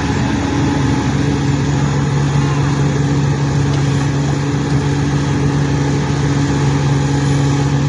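Heavy machinery engine running steadily at a constant speed, with an even low hum.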